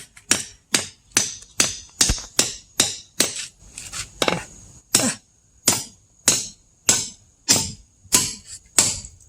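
Hammer blows on a steel wedge being driven into a log, about eighteen sharp metallic strikes at roughly two a second, slowing slightly towards the end. The wedge is set at the end of a natural crack in the log to split it.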